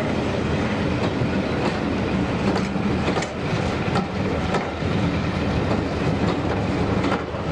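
Diesel train running along the line: a steady engine hum with the wheels clicking irregularly over rail joints.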